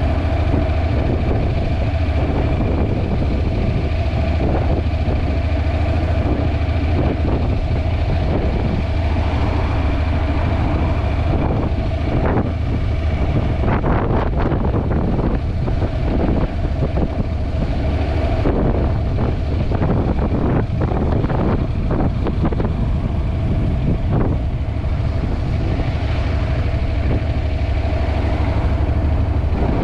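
Honda NC750X motorcycle's parallel-twin engine running under way, with wind buffeting the GoPro's microphone. The buffeting gets rougher and more uneven through the middle stretch.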